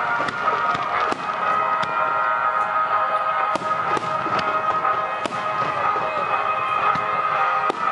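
Fireworks going off in an irregular series of sharp bangs and pops, about a dozen, over music playing steadily.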